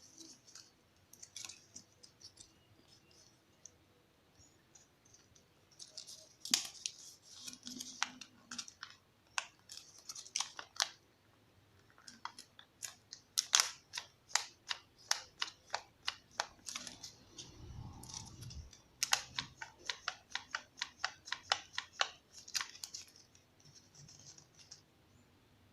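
Origami paper crackling and crinkling as it is creased and handled, a string of crisp, sharp paper clicks that comes in quick runs of a few per second, with quieter pauses between them.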